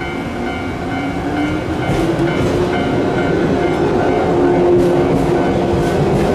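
Electric train running with a hum that rises in pitch over the first few seconds and then holds steady, growing louder, with a few clicks of wheels over rail joints.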